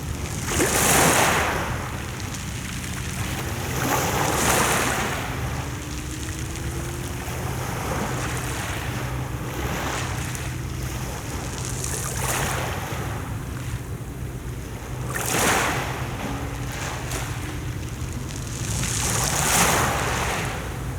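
Mediterranean sea waves washing onto the shore, each wave a swell of surf noise every few seconds, the loudest about a second in, near the middle and near the end.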